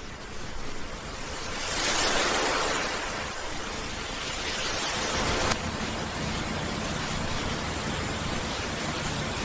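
Ocean waves washing on a shore as a steady rushing noise. It swells about two seconds in and shifts abruptly midway.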